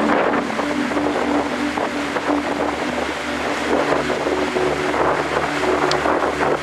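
Strong wind blowing hard and buffeting the microphone, a loud rough rushing, with a low hum pulsing a few times a second underneath.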